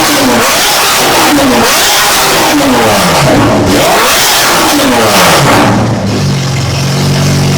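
Car engines revved hard over and over, the pitch climbing and falling back with each rev. About six seconds in, this settles into a steady, held engine note.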